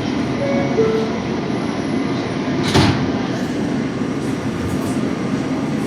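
Inside a New York City subway car: the two-note door chime falls from a higher to a lower note, then the doors shut with a sharp thump about three seconds in, over the car's steady rumble.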